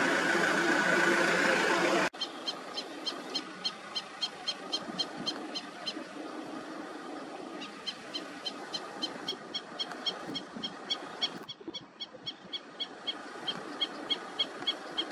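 A vehicle's engine idles with a steady hum for about two seconds, then cuts off suddenly. A bird follows, calling rapid short high notes, about four a second, in three bouts with brief pauses between them.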